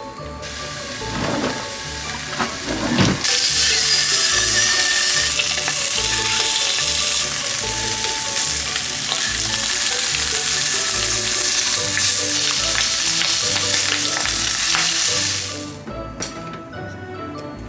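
Food sizzling in a frying pan. The sizzle gets louder about three seconds in, holds steady, then dies away near the end.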